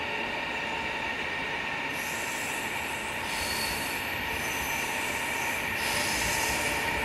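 Chinese high-speed electric multiple-unit train moving slowly along a station platform. A steady running noise with a whine, joined by a higher hiss about two seconds in, grows slowly louder.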